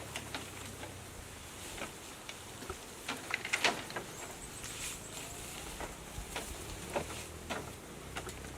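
Irregular light taps and clicks, busiest about three to four seconds in, with a faint thin high whistle near the middle.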